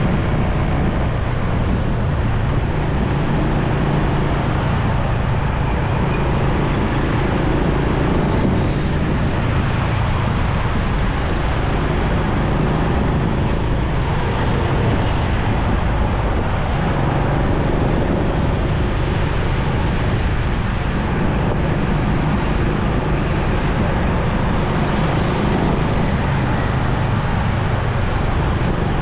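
Motorcycle riding at a steady pace in traffic: a constant engine drone under road and wind noise.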